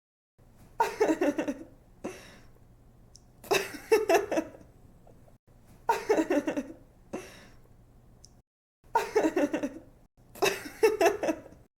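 A young woman laughing: a giggly laugh in five bursts of quick ha-ha pulses, each about a second long, with brief pauses between them.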